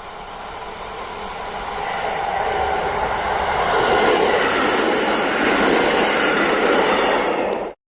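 Train approaching on the line, growing steadily louder over about four seconds, then running past at full loudness. The sound cuts off suddenly just before the end.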